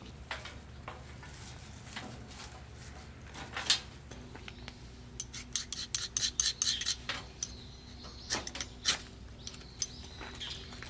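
Light clicking and clattering of small hard objects being handled, scattered at first, then a quick run of taps about five to seven seconds in.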